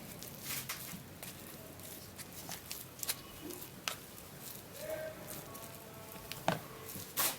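Light kitchen handling sounds of grated potato being worked for its juice: scattered soft clicks and taps of utensils and containers, with a sharper click near the end.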